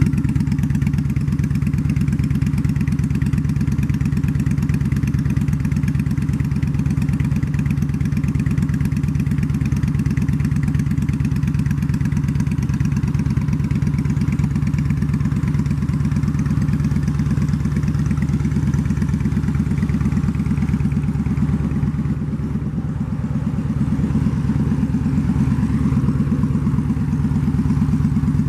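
Yamaha V Star 950 air-cooled V-twin idling steadily through a Cobra aftermarket exhaust. About three-quarters of the way through it dips briefly, then recovers.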